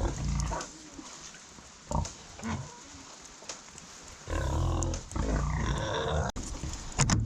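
Heavily pregnant Hereford sow grunting: a few short grunts, then a longer, louder run of grunts about four seconds in. Her belly has dropped and she is close to farrowing.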